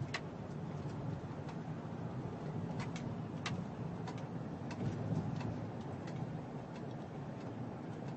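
Steady tyre and road noise heard inside the cab of a 2009 Chevy Silverado Hybrid pickup moving in all-electric drive, with the gasoline engine not adding any sound, and a few faint ticks scattered through it.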